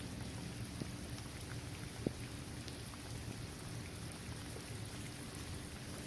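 Steady rain falling on a hard court surface, trees and grass, with individual drops ticking through it. One sharper drop stands out about two seconds in.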